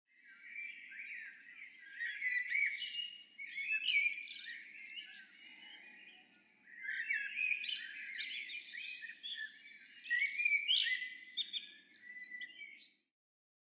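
Many small birds chirping and twittering together in a dense chorus. There is a short lull about six seconds in, and the chorus cuts off about a second before the end.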